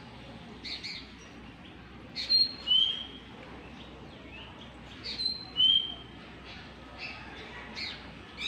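A bird calling, repeating the same short phrase about every three seconds: a couple of quick rough notes, then two short whistled notes, the second lower than the first.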